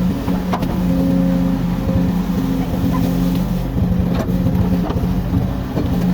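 Komatsu excavator's diesel engine running steadily under hydraulic load, with a few brief knocks from the machine at work.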